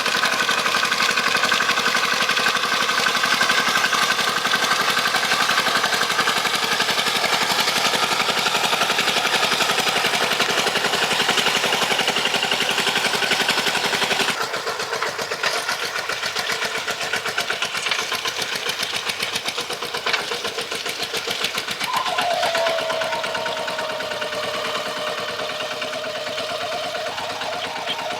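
Tractor engine running steadily with a rapid firing rhythm. About halfway through the sound changes abruptly and becomes thinner, and later a whine glides down in pitch and then holds steady.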